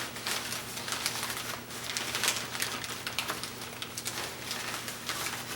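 Irregular crinkling and crackling of packing material as a mailed parcel is unwrapped by hand, over a steady low hum.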